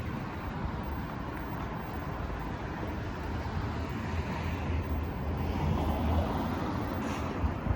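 Outdoor city traffic noise: a steady low rumble, with a vehicle swelling past about five seconds in and a couple of small knocks near the end.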